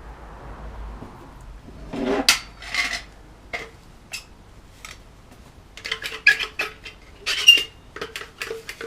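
Metal tools and parts clinking and clattering as they are handled and set down on a workbench: a run of separate sharp clinks, some ringing briefly, coming thickest near the end.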